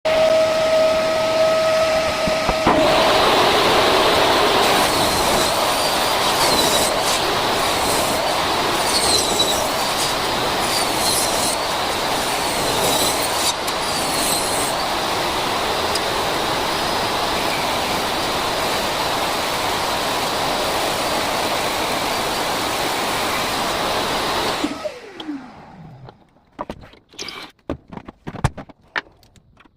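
An electric woodworking power tool running, first free with a steady whine, then cutting into wood with a loud, rough, continuous noise. About 25 seconds in it is switched off and winds down with a falling pitch, followed by a few knocks of wood being handled.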